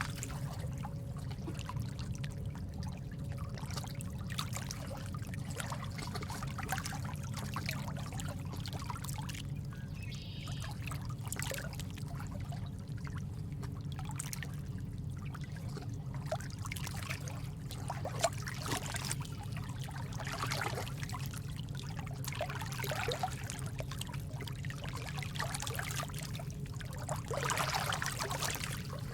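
Steady trickling water with many small drips and splashes throughout, a calming nature-sound ambience.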